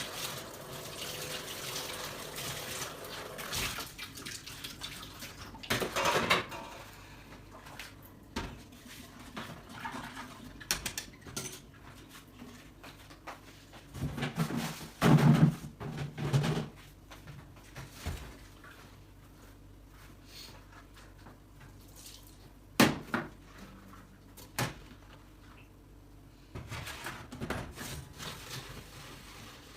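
Dishes and cutlery clinking and knocking against each other at a kitchen sink, with a tap running at the start and again near the end. A heavier clatter comes about halfway through.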